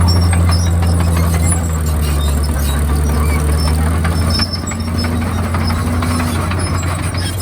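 Komatsu D51PX bulldozer's diesel engine running steadily, easing off slightly about four and a half seconds in.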